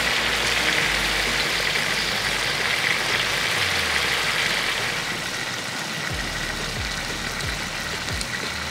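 Chicken breasts frying in a large pan, a steady sizzling hiss that eases a little after about five seconds.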